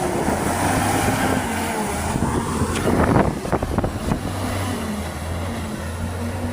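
Dodge 600 truck's engine running steadily while driving, with a cluster of knocks and rattles about three to four seconds in.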